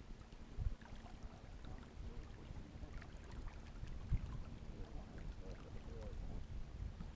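Kayak on the water: water sloshing around the hull under low wind rumble on the microphone, with a dull knock about a second in and another about four seconds in.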